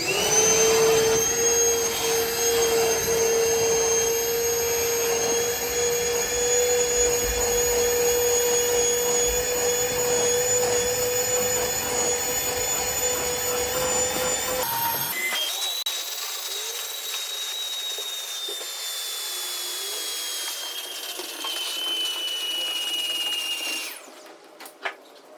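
A vacuum cleaner switched on and running with a steady motor whine while it vacuums out a center console. About 15 seconds in the sound turns thinner, with a higher whine slowly falling in pitch, and the motor shuts off near the end.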